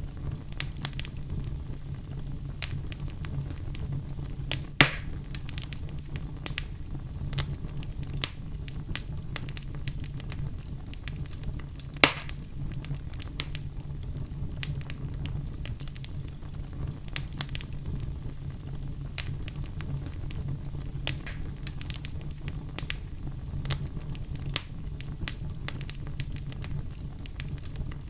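Fire in a fireplace crackling, with many small snaps over a steady low rumble. Two louder pops stand out, about five and twelve seconds in.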